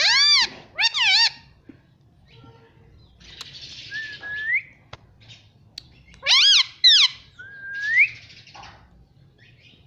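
Indian ringneck parakeet calling. Two sharp, high arched calls come at the start, then a rising whistle about four seconds in, then two more sharp calls and another rising whistle a couple of seconds later.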